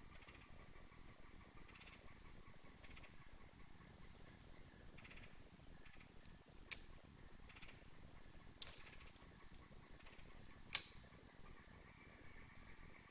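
Faint, steady high-pitched chorus of summer insects, such as crickets, with softer chirps pulsing about once a second. Three sharp clicks come about seven, eight and a half and eleven seconds in; the last is the loudest.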